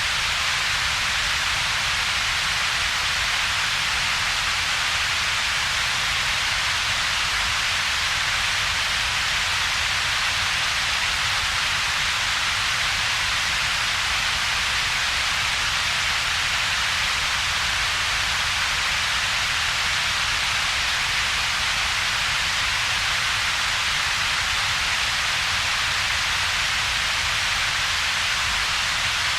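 Steady synthetic double-peaked noise that never changes: a bright hiss strongest around a few thousand hertz, together with a weaker low rumble, with a gap in between.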